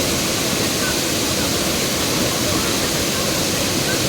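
Waterfall: a steady, loud, unbroken rush of falling water.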